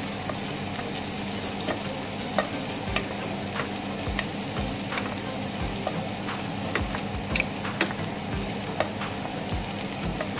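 Chopped onion and garlic sizzling in hot oil in a nonstick frying pan, with a steady hiss. A wooden spatula stirs them, clicking and tapping against the pan now and then.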